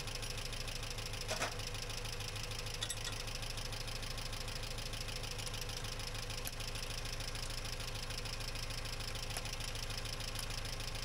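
Subaru flat-four engine idling steadily in the engine bay, with a couple of light metallic clicks from a tool working the clutch cable adjuster about a second and a half and three seconds in.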